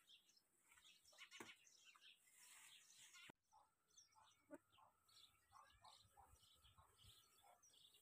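Near silence, with faint small birds chirping and a single sharp click a little over three seconds in.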